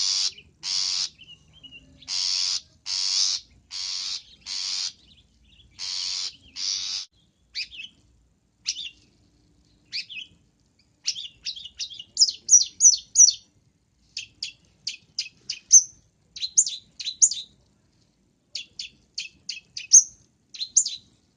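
Long-tailed shrike calling: a run of harsh rasping calls, about one a second, for the first seven seconds, then quick clusters of short, high chirps and twitters to the end.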